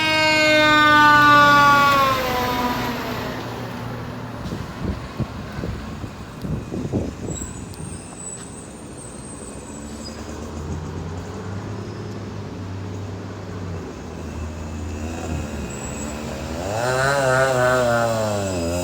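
Fire truck siren falling away over the first two seconds, then the truck's engine running with a few knocks. Near the end the siren rises and wails up and down again, then cuts off suddenly.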